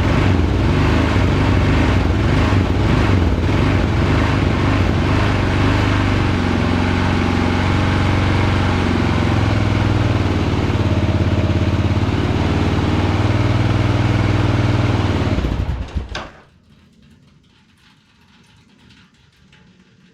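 Kawasaki KLR650's single-cylinder four-stroke engine idling steadily, then shut off about 16 seconds in, leaving only faint background.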